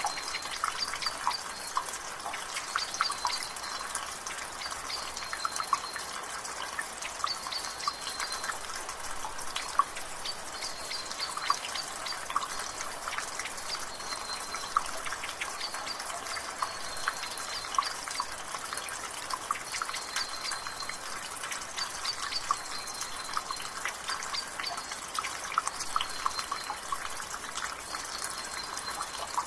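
Water dripping steadily from a rain gutter over a constant hiss of light rain, with many quick, irregular drips. A bird repeats a short high call about every second or two in the background.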